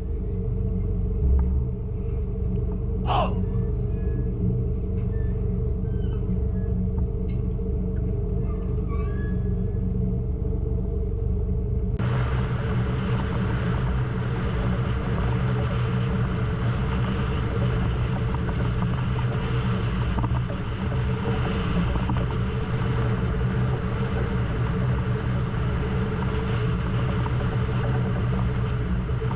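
Engine of a small crew transfer boat running under way, a steady low drone. About twelve seconds in, a rushing hiss of wind and water joins it.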